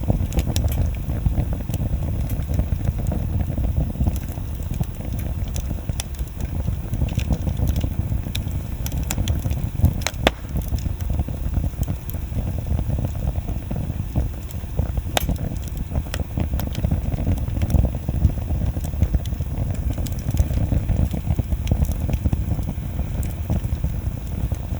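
Wood fire burning steadily with a low, constant rumble and scattered sharp crackles and pops of burning wood, one louder pop about ten seconds in.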